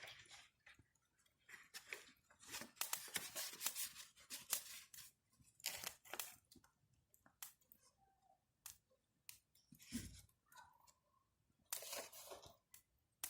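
Wood campfire crackling, with irregular sharp snaps and pops, a busy spell of them a few seconds in and again near the end, and one dull thud about ten seconds in.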